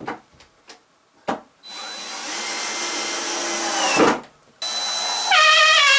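A few short knocks, then a power drill running in two long runs with a brief stop about four seconds in, its pitch wavering under load. This is the drill driving screws to fasten ceiling boards.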